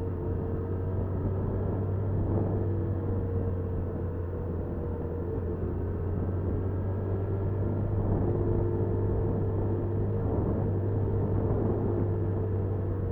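Honda Super Cub 50's small single-cylinder engine running steadily under way, with road and wind rumble.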